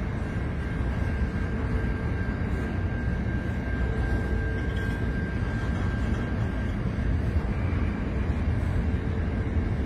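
Intermodal freight train's container wagons rolling past, a steady rumble of wheels on the rails. A faint high whine rises and peaks about halfway through.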